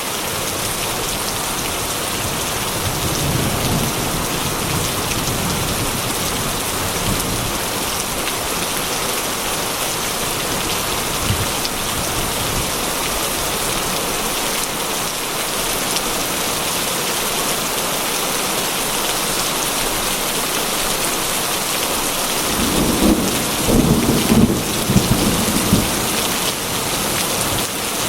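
Heavy rain drumming steadily on a corrugated metal roof, with thunder rolling: a low rumble a few seconds in and a louder, longer one near the end.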